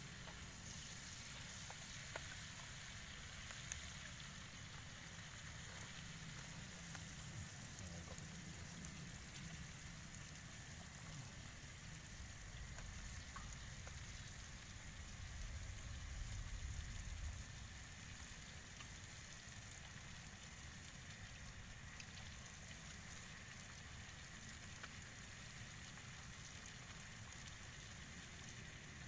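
Steady hiss of heavy rain, with a few sharp drop ticks. A low rumble swells briefly about halfway through.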